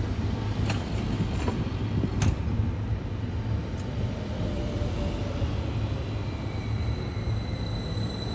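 Train running through a station: a steady low rumble with a few sharp clicks in the first couple of seconds and a thin high whine coming in near the end.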